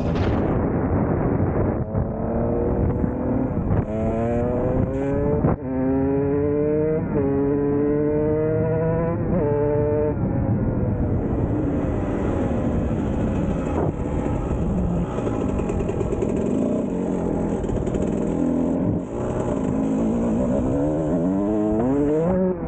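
Kawasaki KX125 two-stroke single-cylinder dirt bike engine running under throttle. Its pitch climbs and then drops sharply several times in the first ten seconds, runs steadier through the middle, and climbs again near the end.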